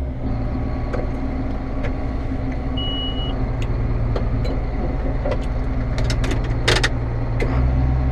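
Diesel tractor engine running steadily, heard from the cab. A short high beep sounds about three seconds in, and sharp clicks rattle near seven seconds.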